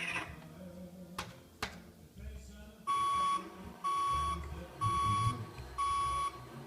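Battery-powered Hess toy truck's electronic back-up beeper: four even, high beeps about a second apart, each about half a second long. Two sharp clicks come before them.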